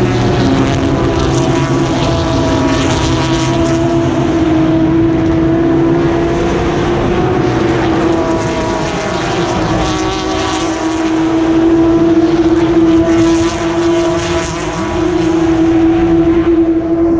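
Race cars' engines running hard as the field streams past through the corner, a continuous loud engine note with a steady droning tone under it and repeated surges as cars go by.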